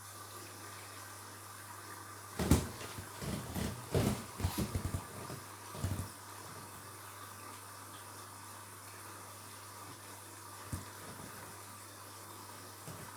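Washing machine filling with water at the start of a wash: a steady hiss of water flowing in with a low hum, coming on abruptly. A cluster of knocks and clatters comes a few seconds in.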